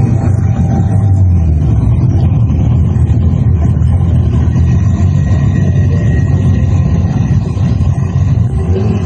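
Mitsubishi Lancer Evolution IX drag car's turbocharged four-cylinder engine running with a loud, steady, rough rumble while the car is held on the drag strip start line.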